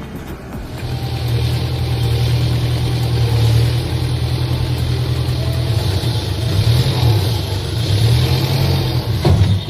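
Heavy vehicle engine running loudly and steadily with a hiss over it. It builds up about a second in and cuts off with a sharp knock near the end.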